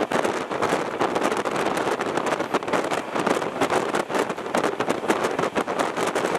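Running noise of a fast-moving Indian Railways train heard from on board, with wind rushing over the microphone: a steady rush cut through by dense, rapid, irregular rattling.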